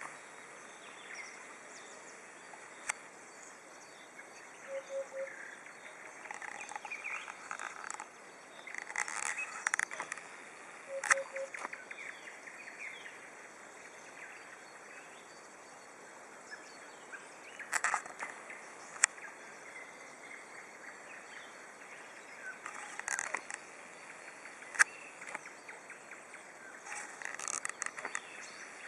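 Dawn birdsong: nightingales singing in short, varied phrases with sharp clicks, and a soft three-note call repeated a few times by another bird.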